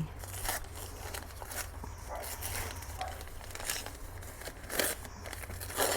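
Plastic plant packaging rustling and crinkling in short bursts as potted plants are handled and unwrapped, with two louder crackles near the end.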